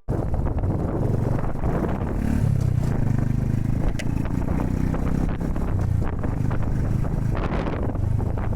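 Honda Super Cub 110's single-cylinder engine running steadily while riding, with wind rushing over the microphone.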